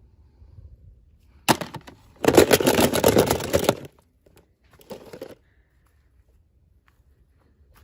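Toy packaging being handled and opened: a sharp crack, then about a second and a half of loud crackling, and a shorter burst of crackling a little later.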